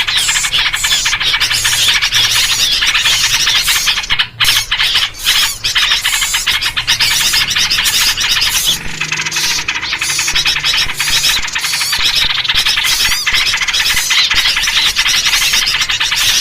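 A dense, agitated chorus of many small songbirds chattering, squeaking and scolding together without a break: a noisy bird-lure recording of the kind used to draw in small birds.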